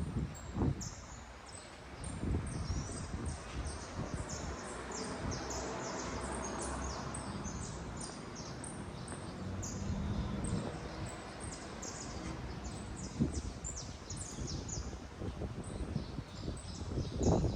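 Birds chirping, many short high-pitched chirps repeating over a steady background of outdoor noise, with a broad swell about halfway through and a few dull knocks.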